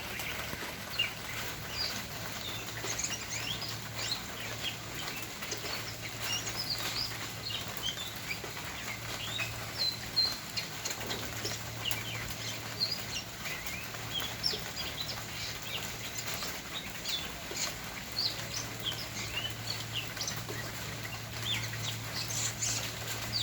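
Birds chirping: many short, quick calls scattered throughout, some overlapping. Under them is a low steady hum that drops out now and then.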